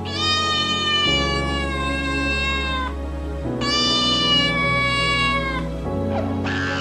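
Domestic cat giving two long, drawn-out meows, each falling slightly in pitch, the second starting about three and a half seconds in, over soft background music.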